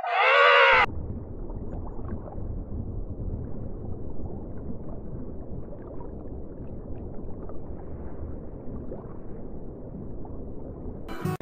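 A bleat with a clear, wavering pitch cuts off in the first second. About ten seconds of low, rough rumbling noise without any call follow, and another animal call starts right at the end.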